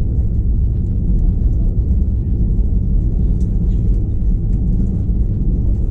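Airbus A321 cabin noise: a steady low rumble of the engines and wheels as the airliner rolls on the ground after landing.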